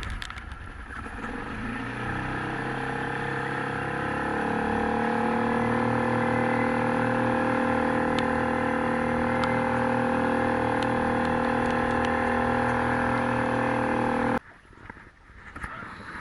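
A boat's outboard motor running under way, its pitch rising over the first few seconds as it speeds up, then holding steady before cutting off suddenly near the end.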